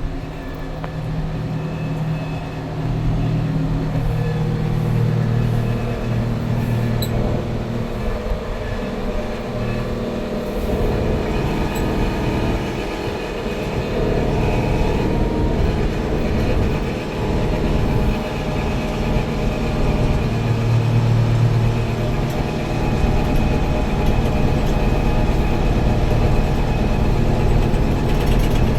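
Tractor engine running steadily, a continuous low drone whose pitch shifts slightly now and then.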